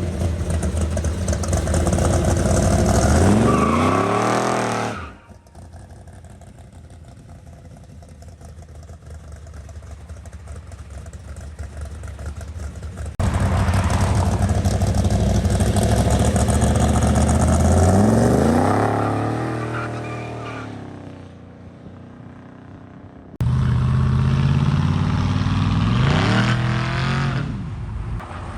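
Car engines accelerating hard away from a standstill, heard in three short cut-together passes; each time the engine note climbs steeply in pitch as it revs up, then fades as the car pulls away.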